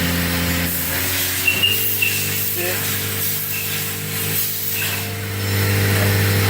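Spindle of a Haas VF-2SS CNC vertical mill running and being stepped up in speed, a steady whine of several tones. The pitch shifts to a new set of tones about a second or so in, and the sound grows louder near the end.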